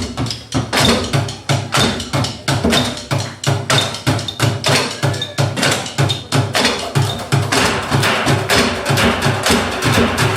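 Live percussion music: sharp wood-block-like strikes at about four a second over a low drum beat, the texture thickening near the end.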